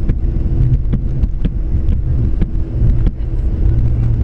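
Cabin noise inside a Boeing 737-700 rolling on the ground after landing: a steady low rumble from the engines and wheels, with frequent small rattles and knocks.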